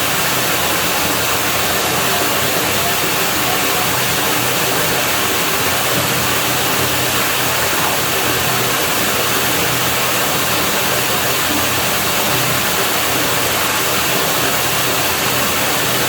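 Steady rushing of running water at a pool villa's pool, with a faint low hum underneath.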